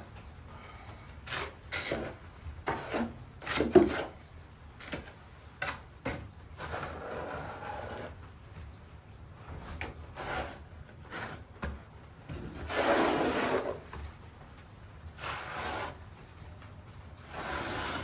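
A tiling trowel scraping and spreading thinset mortar in a tight spot of the floor. There are a few short knocks and taps at first, then several drawn-out scraping strokes, the loudest about two-thirds of the way through.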